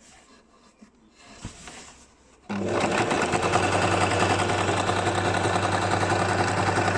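Basic electric sewing machine starting up about two and a half seconds in and then running steadily at speed, a fast even stitching rattle over a motor hum. Before it starts there are only a few faint handling sounds.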